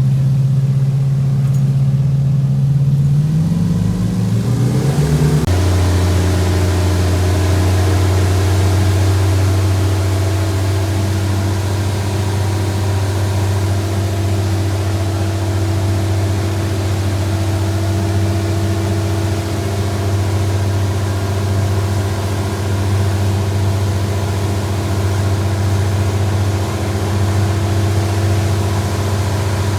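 Tour boat engine running steadily, then opening up about four seconds in. After that it runs at a steady higher throttle, with a rushing hiss of wind and water.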